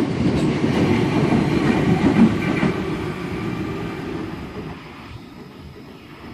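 Sydney Trains Waratah electric train moving along the platform track, with a dense rumble of wheel and rail noise that fades away over the last couple of seconds.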